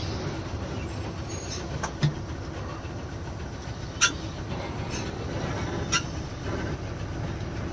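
Inside a loaded truck's cab while driving: a steady low rumble of engine and road noise, with three short sharp clicks or rattles about two seconds apart.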